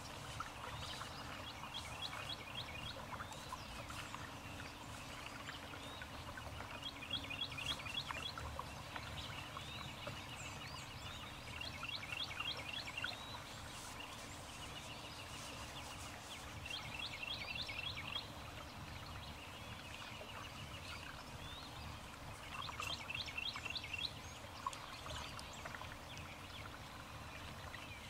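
A bird singing a short, rapid trill of high notes over and over, a phrase every few seconds, over a steady low rumble.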